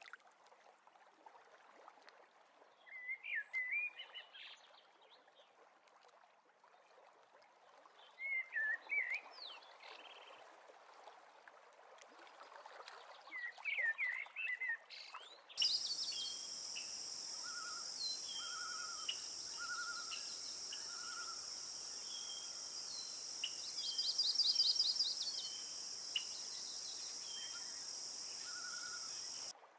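Wild birds singing in short phrases over a quiet outdoor background. About halfway through, the sound cuts abruptly to a steady, high-pitched drone with repeated bird chirps and short notes over it, which stops suddenly near the end.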